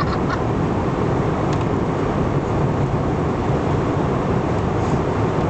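Airliner cabin noise: the steady rush of engines and airflow heard inside the passenger cabin, heaviest in the low end.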